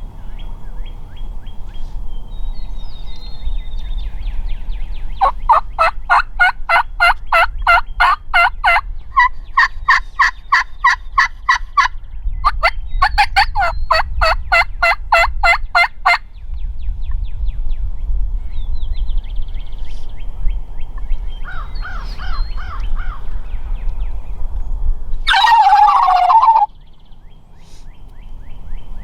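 Turkey yelping in three quick runs of repeated notes, a shorter run a few seconds later, then one loud gobble near the end.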